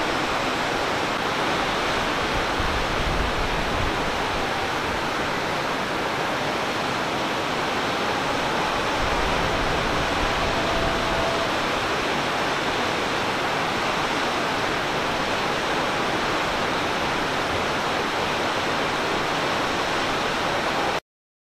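Steady rush of a waterfall, water falling continuously into its pool, which cuts off suddenly near the end.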